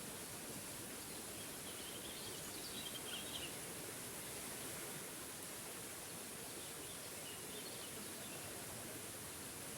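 Waterfall rushing steadily, with a bird chirping faintly in two short bouts, a couple of seconds in and again past the middle.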